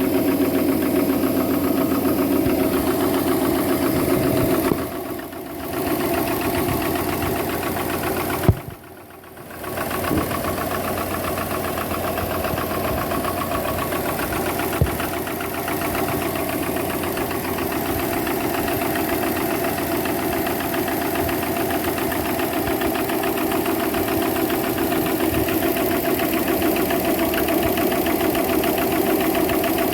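Subaru EJ255 2.5-litre turbocharged flat-four engine running with a steady rapid knock, which the owner wonders is a connecting rod. The sound dips briefly twice, with a sharp tap just before the second dip.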